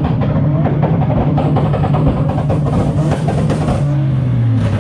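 Car engine held at a steady raised rev, its pitch sagging and falling near the end, with a rough crackle of wind buffeting the microphone over it.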